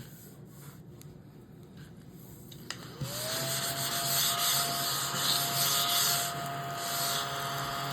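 A small electric motor spins up about three seconds in, runs steadily with a hum and a noisy rushing sound for about five seconds, then spins down. Before it, faint scraping.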